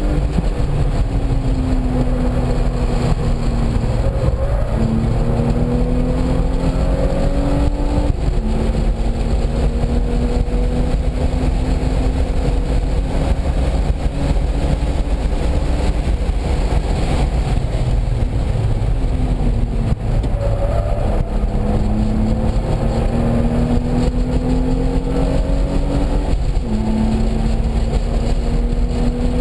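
Car engine pulling hard on a race track. Its pitch climbs steadily through each gear and drops sharply at the shifts, several times, over a heavy low rumble.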